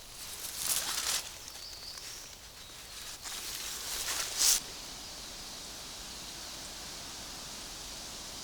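Rustling of undergrowth in two bursts, around a second in and again from about three to four and a half seconds, the second louder; then a steady even hiss.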